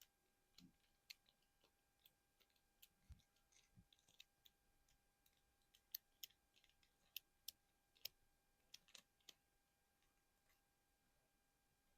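Faint, irregular fingernail taps and clicks on small hard plastic collectibles, with two soft low thumps about three and four seconds in. The tapping stops near the end.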